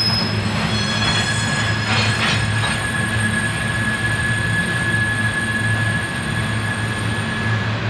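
Coal hopper cars of a freight train rolling past: a steady rumble with a thin, high wheel squeal held from about a second in until just before the end, and a few brief clanks about two seconds in.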